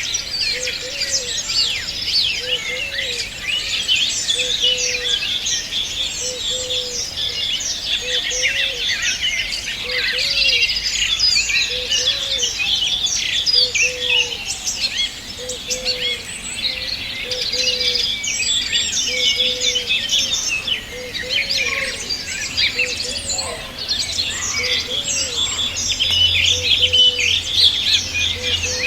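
Dense chorus of many songbirds chirping and trilling at once, with a short low note repeated about once a second underneath.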